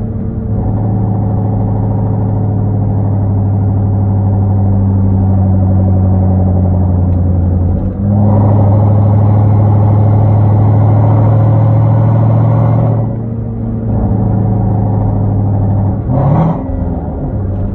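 Hyundai Genesis 5.0 V8 with a straight-piped exhaust and Flowmaster Super 10 mufflers, no catalytic converters, droning steadily while driving. It gets louder under throttle for about five seconds past the middle, then eases off, and a brief rev rises and falls near the end.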